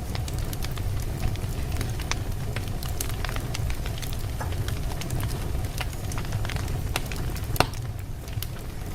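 Wood fire burning in a fireplace: a steady low rumble of flames with scattered crackles and pops from the logs, the sharpest pop about seven and a half seconds in.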